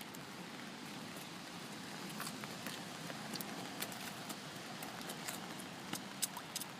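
Faint water pattering: scattered small drips or splashes ticking irregularly over a steady soft hiss, a little busier in the second half.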